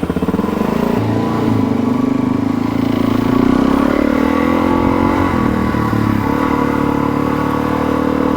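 Suzuki DR-Z400S's single-cylinder four-stroke engine running just after starting. Its pitch shifts about a second in and again around five seconds in.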